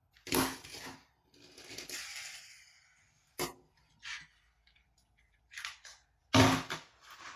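Hard plastic toy pieces handled and set down: a string of separate clicks and knocks, the loudest a little after six seconds, with a short rustle a second or so in.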